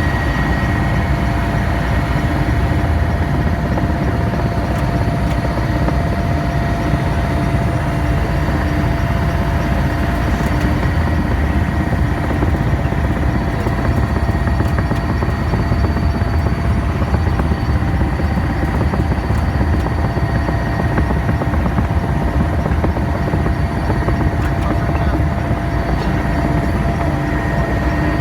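Helicopter in flight heard from on board: a steady, loud drone of rotor and engine with a constant whine and no change in pitch.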